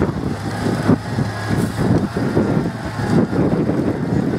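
Off-road 4x4's engine running steadily, with a low, even hum under rougher uneven noise.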